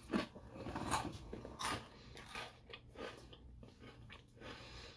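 A person chewing a crisp, light coffee milk biscuit, with a run of soft, irregular crunches and mouth sounds.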